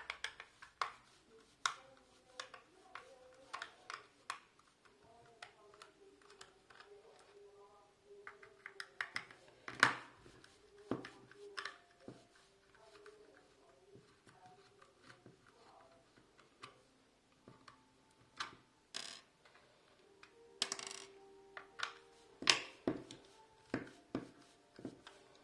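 Irregular clicks and taps of hard plastic and small metal parts being handled as a hot glue gun is worked on and taken apart, with one louder knock about ten seconds in.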